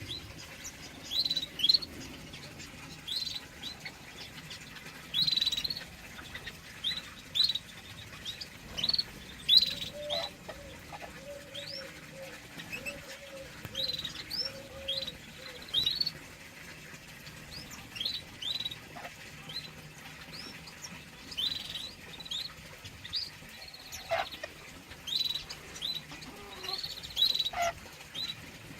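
Small cage birds chirping: many short, high chirps repeated irregularly, with a run of lower notes about ten seconds in.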